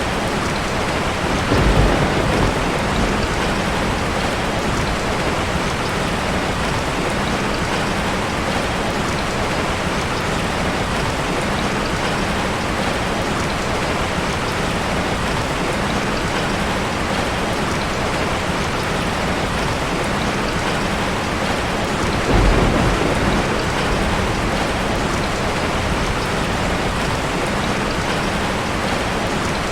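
Heavy rain falling steadily. Two low rolls of thunder rise over it, one about two seconds in and another about twenty-two seconds in.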